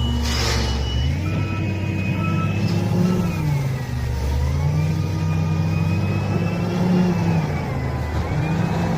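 SDLG wheel loader's diesel engine working under load, its revs climbing and dropping back about three times, with a high whine that rises and falls along with the revs.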